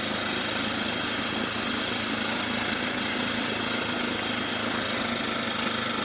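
Small Mercury outboard motor running steadily at a fast idle that is being turned down, with an even, unchanging engine note.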